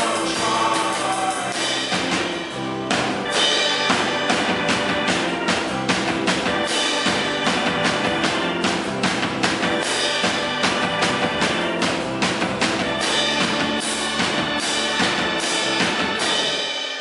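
A live band plays the final bars of an indie song, with the drum kit hitting hard under sustained chords. The music stops suddenly just before the end.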